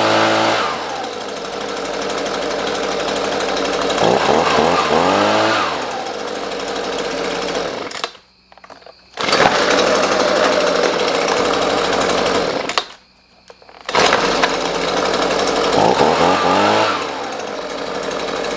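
Husqvarna 125B leaf blower's two-stroke engine running, revved up and down with the throttle and settling lower between revs. Twice the sound drops out for about a second and then comes straight back at full level.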